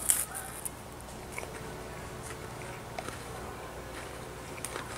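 A bite into crisp food with a sharp crunch just after the start, then quiet chewing with a few faint crunches.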